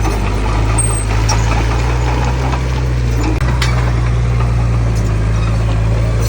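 Heavy diesel engine of earthmoving equipment running steadily with a deep, even hum and some light clatter over it.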